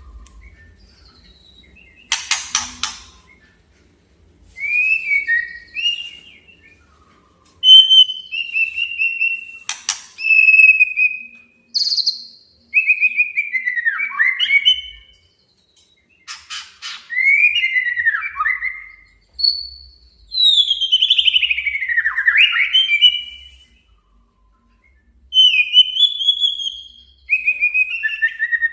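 White-rumped shama (murai batu) singing a challenge song: loud whistled phrases that slide up and down, broken by a few short harsh rattles, with pauses between phrases.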